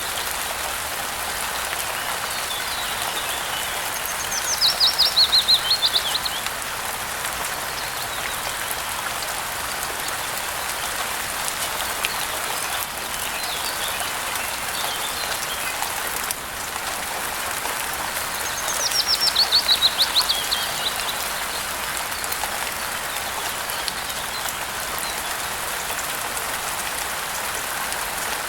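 Steady rain falling, with a songbird singing a loud, rapid trill that falls in pitch, twice: about four seconds in and again about nineteen seconds in. Fainter chirps come in between.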